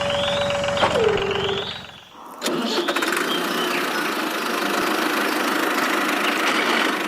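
A small motor running steadily, then winding down in pitch about a second in and stopping. About two and a half seconds in, a motor starts abruptly and runs on steadily.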